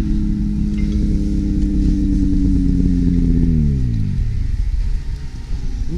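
Snowmobile engine running steadily, then its pitch falls away and it dies out about four seconds in.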